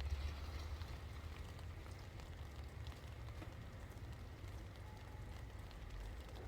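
Steady rain falling, with many scattered drops pattering and ticking, over a steady low rumble.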